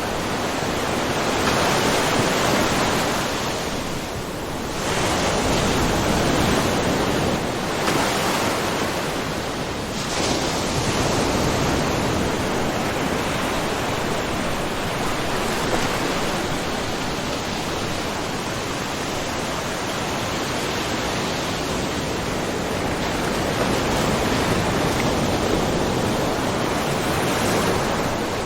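Small ocean waves lapping and splashing along a rocky, mussel-covered shore, a continuous wash of surf that swells and eases every few seconds.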